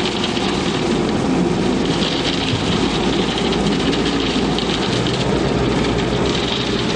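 Self-loading concrete mixer truck working: its diesel engine running with a steady, loud rushing and churning noise.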